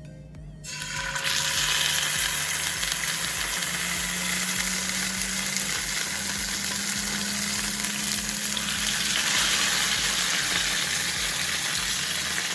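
Marinated chicken thighs sizzling in hot oil in a pan, skin side down. The frying hiss starts about a second in and holds steady.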